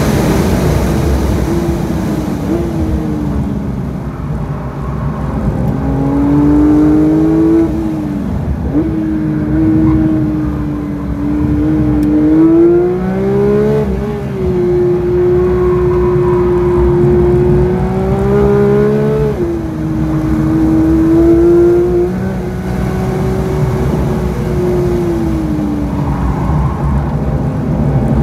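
Porsche 992 GT3's naturally aspirated 4.0-litre flat-six engine, heard from inside the cabin, lapping a race track. The engine note falls as the car brakes from high speed and steps up as it is shifted down. It then climbs and drops repeatedly as the car accelerates out of the corners and shifts gears.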